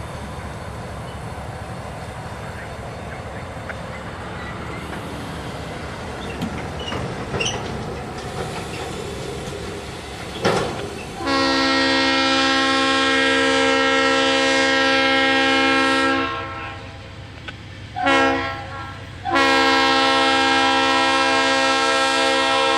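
Diesel freight locomotive's multi-chime air horn: a brief toot, a long blast of about five seconds, a short blast, then another long blast. Before the horn comes the steady rumble of the approaching train.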